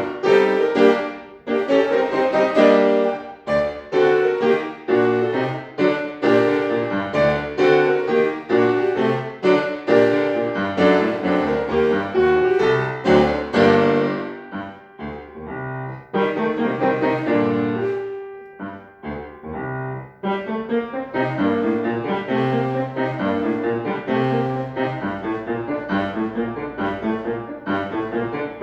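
Solo acoustic piano playing a classical piece in quick, separate notes. About halfway through it grows softer for a few seconds, then picks up again.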